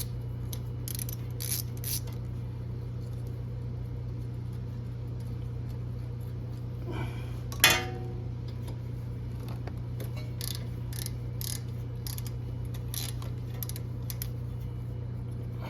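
Hand tools working on a car's axle and suspension: scattered light metal clicks and one sharp metallic clank about eight seconds in, over a steady low hum.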